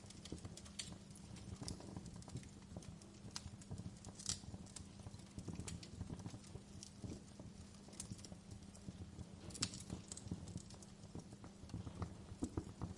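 Wood fire burning in a fireplace: a steady low rumble of flames with irregular sharp crackles and pops, two louder snaps at about four and ten seconds in.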